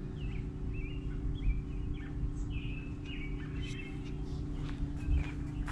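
Small birds chirping repeatedly in short notes, over a low rumbling background noise.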